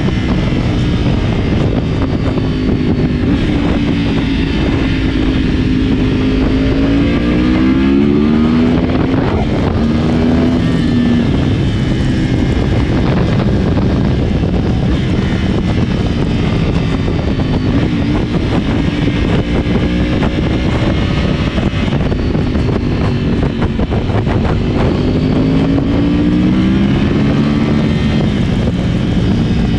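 2010 Yamaha R1's crossplane inline-four running through a decatted Akrapovic exhaust under way, its pitch climbing under acceleration about seven seconds in, dropping back at a gear change and climbing again, then holding fairly steady before rising again near the end.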